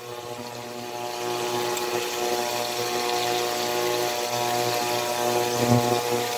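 Chicken pieces sizzling in hot oil in a stainless-steel pot, under a steady machine hum of several pitches at once.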